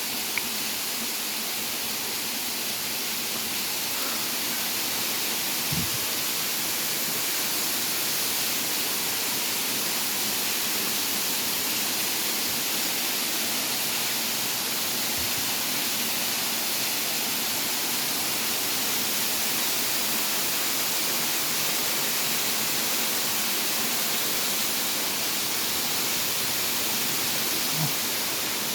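Waterfall, the falling water making a steady, even rush.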